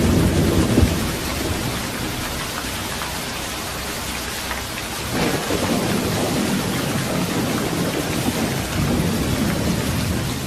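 Thunderstorm: heavy rain falling in a steady hiss, with rolling thunder. A low rumble dies away in the first second, and another swells up about halfway through.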